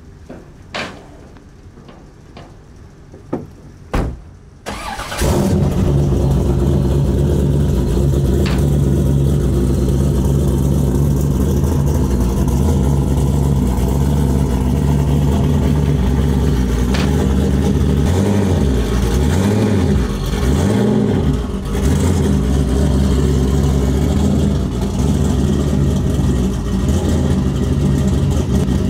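A few clicks and knocks, then a Corvette race car's engine starts about five seconds in and keeps running loudly at low speed, its note dipping and swelling a few times past the middle as the throttle is worked.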